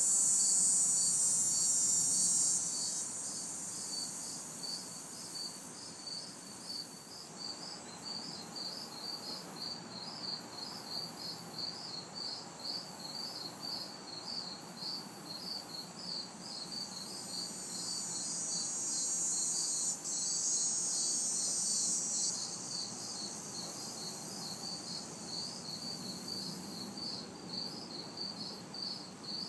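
A chorus of crickets chirping in a fast, even rhythm, with a loud high buzzing of cicadas that cuts off about two and a half seconds in and swells back for a few seconds after the middle. A faint hum of distant traffic lies underneath.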